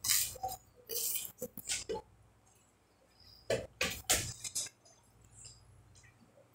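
Crunching of crispy griddle-toasted bread being bitten and chewed close to the microphone: a few short crunches in the first two seconds, then two louder ones a little past halfway.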